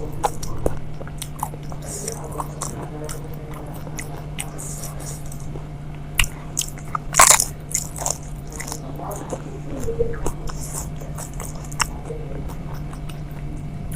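A person biting into and chewing crisp pani puri (golgappa) shells, a run of short crunches with the loudest about seven seconds in.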